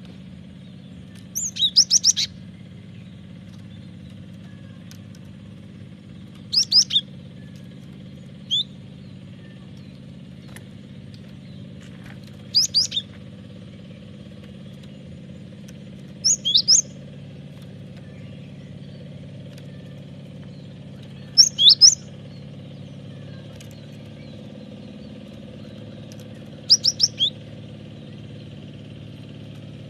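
Cinereous tit (gelatik batu) calling in short, loud bursts of two to four quick high notes that slide downward, repeated about every four to five seconds. A steady low hum runs underneath.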